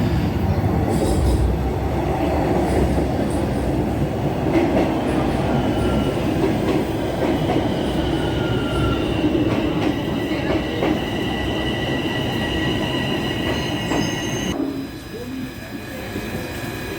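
Subway train running: a steady rumble of wheels on the rails, with a high wheel squeal from about six seconds in that cuts off suddenly near the end, where the rumble also eases.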